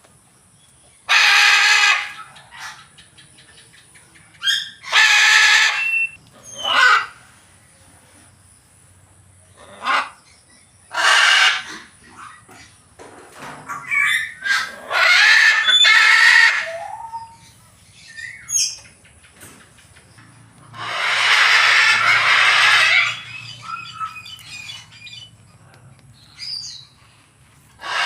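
Macaw giving loud, harsh squawks, each about one to two seconds long, repeated every few seconds with shorter calls in between; the longest call, about two seconds, comes past the middle.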